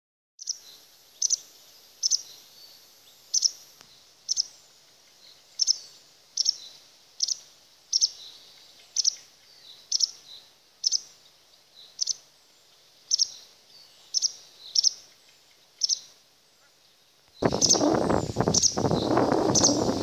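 White wagtail giving short, sharp, high calls about once a second. Near the end a loud rushing noise starts and continues under the calls.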